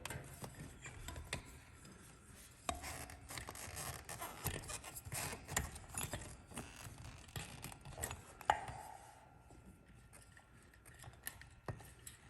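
Scattered light clicks, scrapes and small rattles of hands taking apart a ceiling fan's housing and handling its wiring, with a sharper click about eight and a half seconds in.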